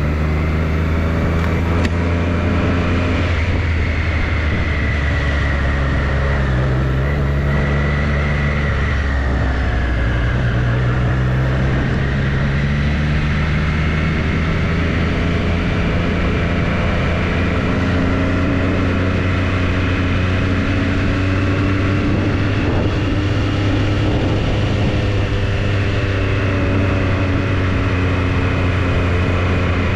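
Triumph Street Triple's inline three-cylinder engine running while riding, its note falling and rising several times with changes in speed.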